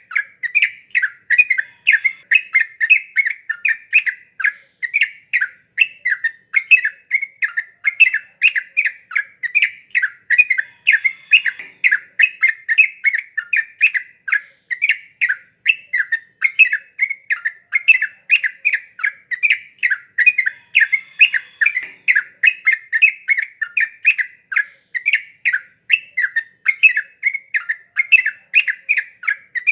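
Yellow-vented bulbul (trucuk) calling without pause: an unbroken run of short, chirping notes repeated several times a second.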